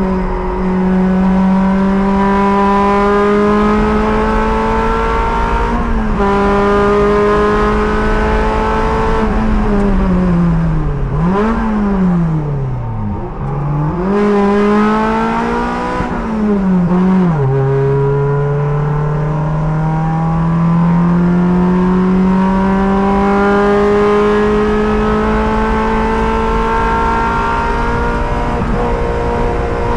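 Race car engine at high revs under full throttle, heard from the driver's helmet, with a quick upshift about six seconds in. From about ten seconds in the revs fall through several downshifts with throttle blips as the car brakes for a corner. From about seventeen seconds the engine pulls steadily up through the gear again, with another shift near the end.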